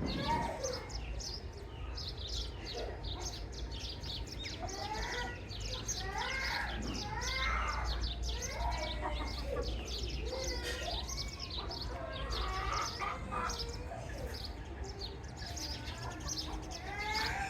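Chicks peeping in a dense, continuous chorus of short high chirps, with lower calls that rise and fall scattered among them.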